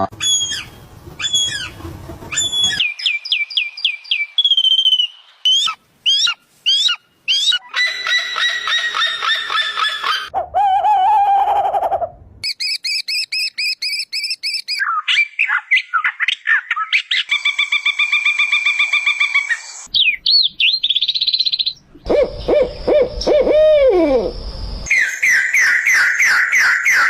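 A succession of different bird calls: whistles, trills, repeated chirps and falling notes, each type lasting one to three seconds before cutting abruptly to the next, as in a montage of several species.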